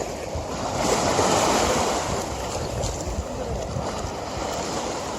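River water flowing in a steady rush, swelling louder for about a second starting about a second in.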